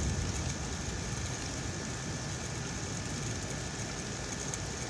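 Heavy rain falling steadily, a constant hiss during a downpour that is flooding the yard.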